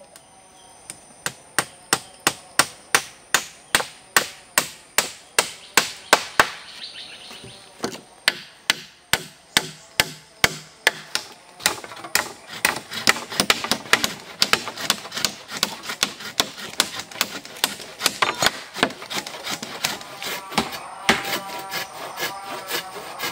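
Hammer driving nails into wood, steady repeated blows about two a second, coming faster in the second half.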